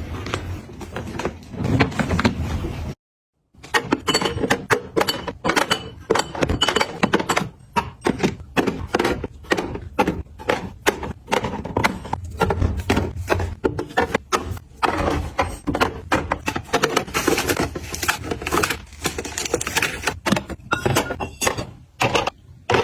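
Objects being handled and set down: a quick, irregular run of taps, clicks and knocks, broken by a brief dead gap about three seconds in.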